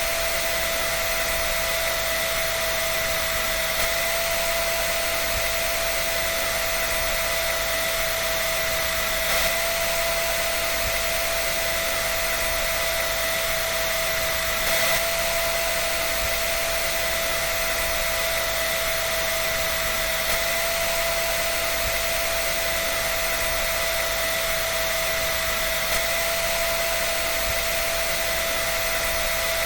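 Dryer running steadily: an even rushing hiss with a constant high whine.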